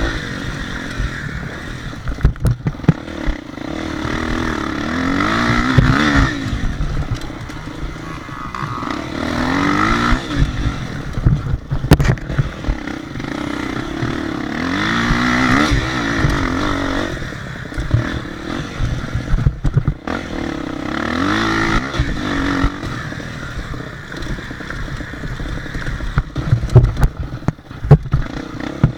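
Motocross dirt bike engines revving, the engine pitch climbing and dropping again every few seconds as the throttle opens and closes, with frequent thumps and rattles.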